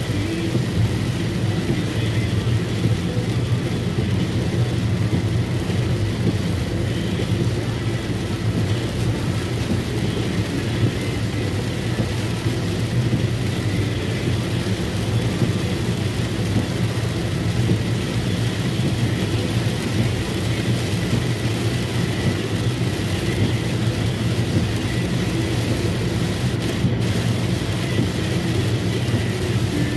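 Motorcycle running at a steady pace on the road, its engine hum low and constant under a wash of rain and wind noise.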